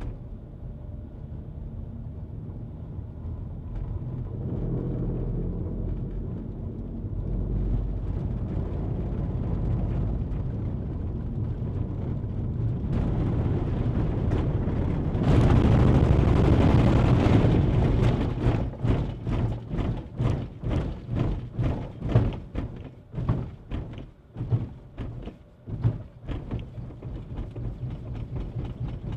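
Skoda Kushaq SUV being driven: low road and engine rumble that grows over the first dozen seconds, then a burst of loud rushing noise about halfway through, followed by a long run of irregular thumps, roughly two a second.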